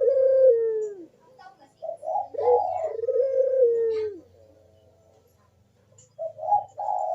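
A puter dove (Barbary dove) cooing its repeated "kuk-deruk" song, known as manggung: each phrase is a few short notes and then a long drawn note falling in pitch. About three phrases are heard, with a quiet gap of about two seconds before the last one, which starts near the end.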